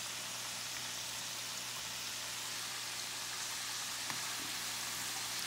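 Potato sticks deep-frying in hot oil in a stainless steel saucepan: a steady sizzle.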